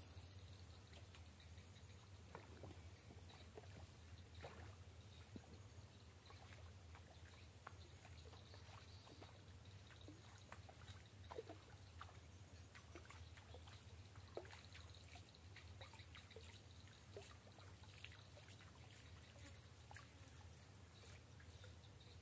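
Near silence: faint open-air ambience with a steady high whine and a low hum, dotted with scattered faint ticks and taps.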